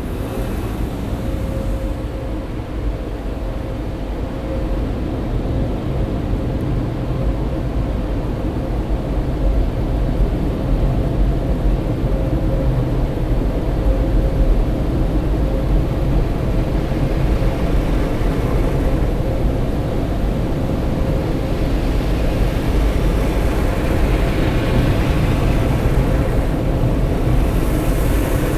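Automatic tunnel car wash machinery running, heard from inside the car: a steady, loud rumble with a constant hum, and a rising hiss in the last ten seconds or so.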